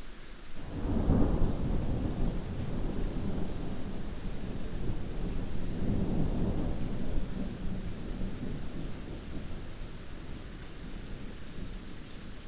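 Heavy rain falling with a steady hiss, and a deep rumble of thunder breaking in suddenly about half a second in, swelling again around the middle, then slowly dying away.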